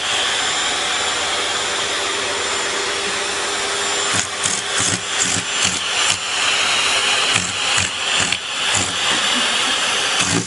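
Vacuum cleaner running with a steady hiss and hum. From about four seconds in, irregular knocks and surges break into the sound.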